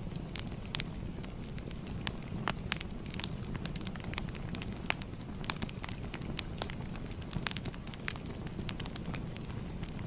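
Crackling fire: a steady low rumble of burning wood with frequent irregular sharp pops and snaps.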